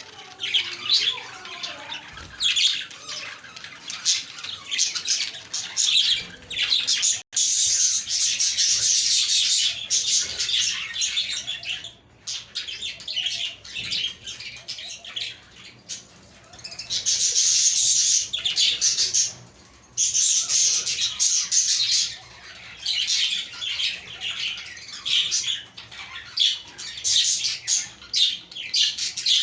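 A flock of budgerigars chirping and warbling together in a dense, high-pitched chatter that swells and dips, with the loudest stretches near the middle and toward the end.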